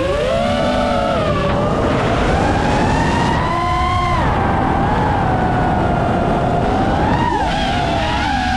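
7-inch FPV quadcopter's motors and propellers whining, the pitch dipping and rising again and again as the throttle changes, over a steady rush of wind noise.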